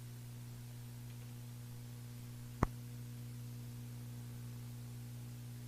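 Steady low electrical hum with a single sharp click about halfway through.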